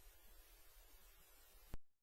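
Near silence with a faint hiss, broken by one brief click near the end, after which the sound drops to dead digital silence.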